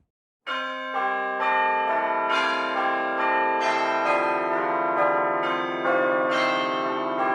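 Bell-like chiming music: pitched bell tones struck about twice a second and ringing on over one another, starting about half a second in after a sudden cut to silence.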